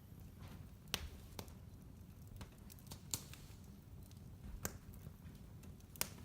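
Wood fire crackling in a fireplace: scattered sharp pops and snaps, a few standing out clearly, over a low steady rumble of burning.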